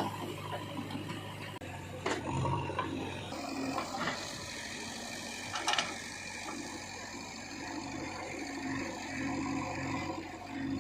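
Heavy diesel machinery running steadily, with a sharp knock about two seconds in and another just before six seconds.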